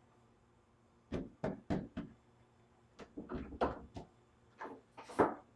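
A run of short wooden knocks and clunks: four quick ones between about one and two seconds in, a cluster around three to four seconds, and the loudest about five seconds in.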